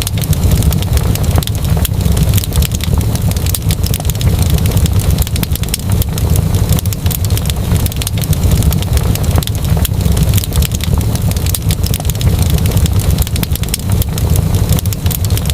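Fireplace fire crackling, with many small sharp pops over a steady low rumble.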